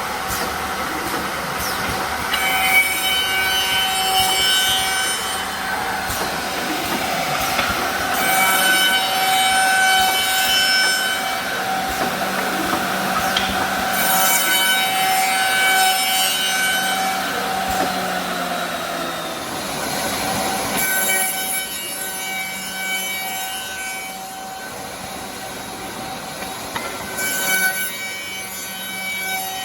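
Automatic double CNC tenoning machine running, with a steady high whine from its spinning cutter heads. Bursts of cutting noise come every several seconds as workpieces pass through.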